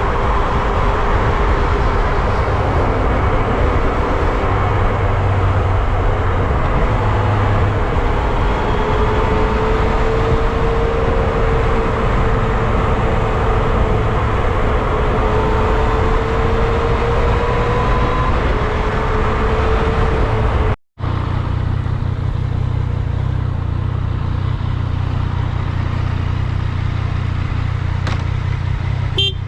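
Wind noise buffeting a GoPro's built-in microphone while riding a Yamaha MT-09 SP motorcycle, over the three-cylinder engine running at a steady cruise with its pitch slowly rising and falling. The sound cuts off abruptly about two-thirds of the way in, then resumes duller, with less hiss and more low rumble.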